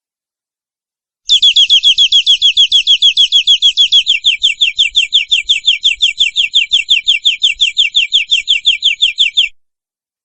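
Domestic canary singing one long, rapid trill of evenly repeated notes, about nine a second, that starts about a second in, shifts to a slightly lower note about four seconds in, and stops abruptly.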